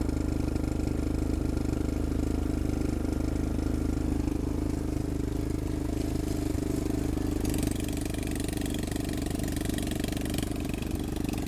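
A vehicle engine running steadily at an even pitch. A hiss joins it about two-thirds of the way through.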